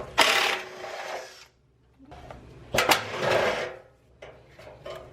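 Impact wrench hammering in two bursts of about a second each, a motor whine under a rapid rattle, undoing the last bolts holding the front fender.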